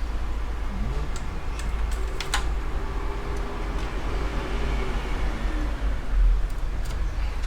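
Cables and small plastic parts being handled inside a PC case: scattered clicks and taps, clustered about a second to two and a half seconds in and again near the end, over a steady low hum.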